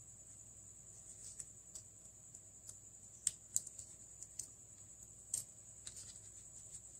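Light, irregular clicks and taps of small tools and plastic parts being handled on an opened Samsung Galaxy J2 (2016) smartphone, the sharpest pair about three seconds in, over a faint steady high-pitched whine.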